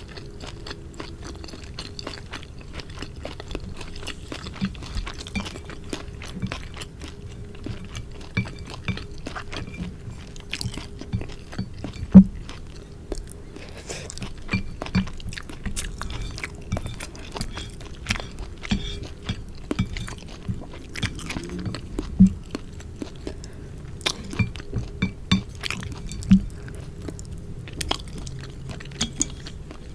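Close-miked chewing and mouth sounds of someone eating dry sukiyaki glass noodles, with many small clicks and a few sharper, louder clicks scattered through.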